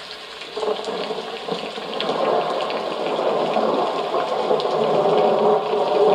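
Recorded water sound played through a small white noise sleep machine's speaker: a steady rushing hiss that comes in fuller about half a second in and slowly grows louder.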